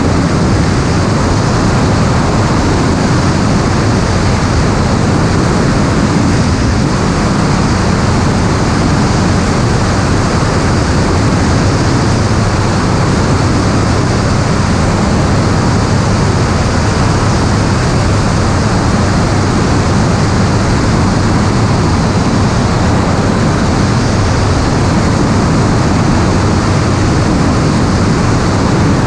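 Steady loud rushing noise of an aircraft in flight, wind and motor noise blended into an even roar that does not change.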